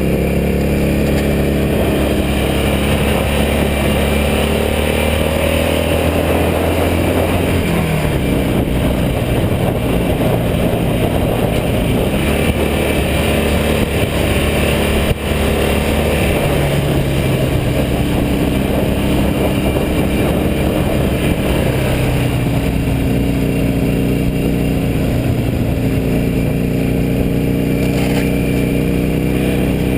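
A road vehicle's engine running while driving along, its pitch rising as it accelerates and dropping at gear changes, with a clear drop about eight seconds in.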